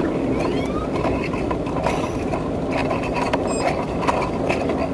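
A vehicle running with steady engine and road rumble and a low hum, with scattered clicks and rattles throughout.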